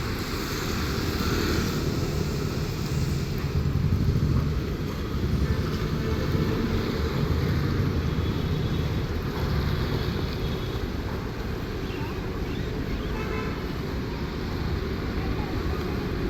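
Street traffic going by: a steady low rumble of motorbike and car engines and tyres on the road.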